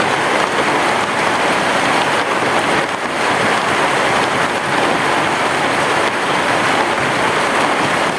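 Heavy rain falling steadily, a dense, even hiss of drops with no thunder heard.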